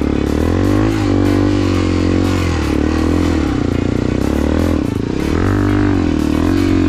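Off-road dirt bike engine running hard under load, its pitch rising and falling repeatedly as the throttle is worked, with a couple of brief dips in revs.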